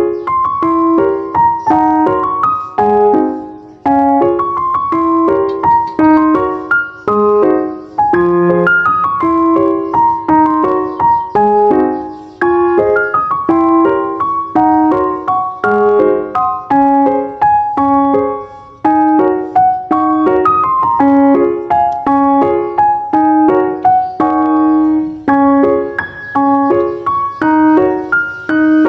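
Piano music: a steady run of quick single notes and chords.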